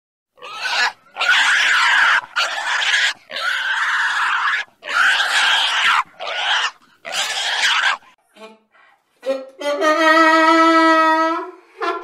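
A pig squealing in a run of about seven harsh, loud calls. About nine seconds in, a donkey starts braying with a long, steady-pitched note.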